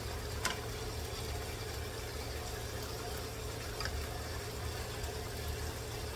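Pot of chicken adobo simmering in its liquid, a steady bubbling hiss over a constant low hum, with a light click about half a second in and another near four seconds.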